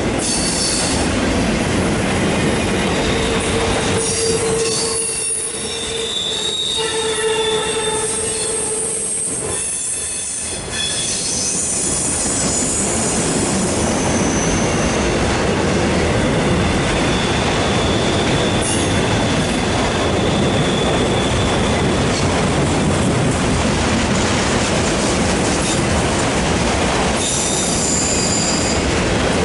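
Empty autorack freight cars rolling past close by, a steady heavy rumble and rattle of wheels on rail, with high-pitched wheel squeal rising out of it several times.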